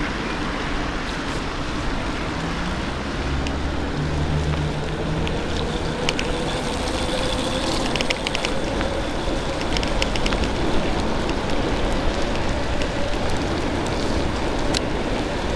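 Steady road and wind noise from riding through traffic in the rain, with a faint engine tone rising slowly through the middle and a few light clicks.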